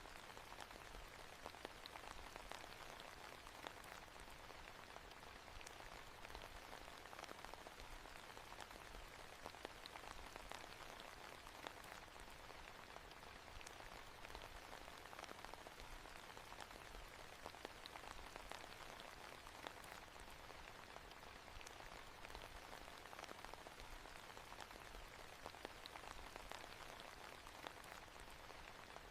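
Faint, steady rain falling on a hard surface, with scattered small drop ticks.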